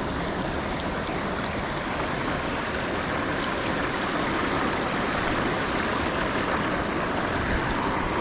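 Steady hiss of rain falling, an even rushing noise with no distinct drops or breaks.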